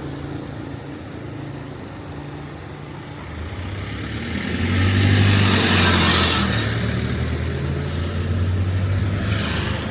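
Street traffic: a motor vehicle's engine hum swells as it passes close, loudest about five seconds in, then eases off near the end.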